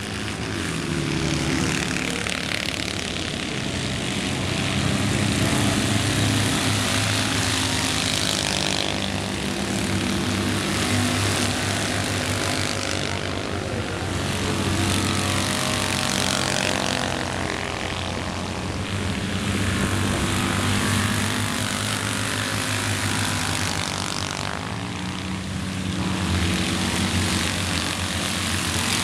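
Several Citroën 2CV air-cooled flat-twin engines racing together, a buzzing drone whose pitch rises and falls as the cars accelerate and lift through the bends.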